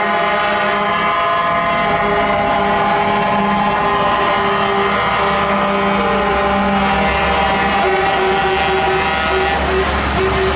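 Truck air horns blaring continuously, several horns at once in a steady chord, over the rumble of truck engines; the mix of horn tones changes near the end.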